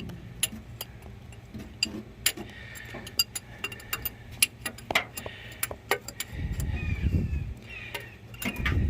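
Irregular metal clicks and clinks of a ratcheting wrench being fitted onto the starter mounting bolt, with two dull low rumbles from handling in the second half.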